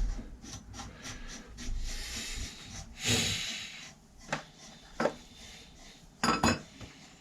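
Handling noises: a series of sharp clicks and knocks, with two spells of rubbing or rustling noise, the louder one about three seconds in, and a quick double knock near the end.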